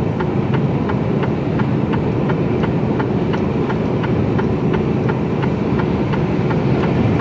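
Inside a Mercedes-Benz Actros lorry cab at motorway speed: the steady drone of the diesel engine and the road. Over it the turn indicator ticks evenly, about three times a second.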